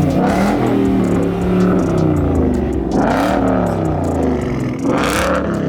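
Several vehicle engines running, with the pitch dipping and rising as throttles are blipped, and bursts of rushing noise about three and five seconds in.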